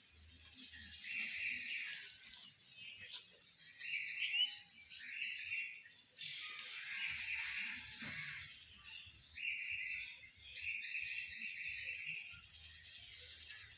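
Birds chirping in short bursts of about a second, repeating every couple of seconds, over a steady high hiss.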